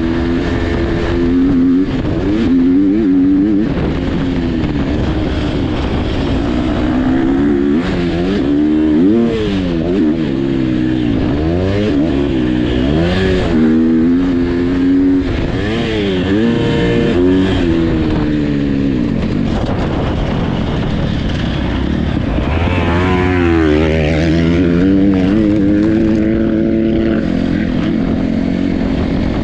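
Motocross dirt bike engines revving up and dropping back again and again as they race, with more than one bike heard at once at times.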